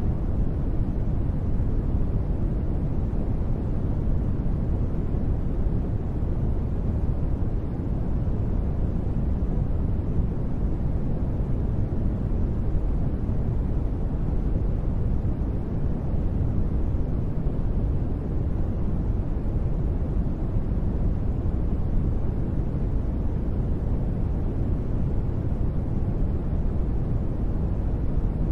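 Steady, unchanging sleep noise sold as white noise: a deep, rumbly hiss with most of its weight in the bass and little treble, with no sudden sounds.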